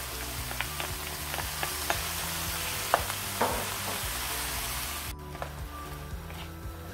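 Boneless chicken pieces and chopped garlic sizzling in hot olive oil in a nonstick karahi, stirred with a spatula that ticks and scrapes against the pan. The sizzle drops off abruptly about five seconds in, leaving a quieter frying sound.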